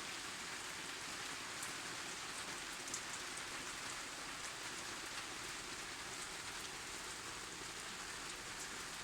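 Light rain falling steadily: an even hiss with a few faint drop ticks scattered through it.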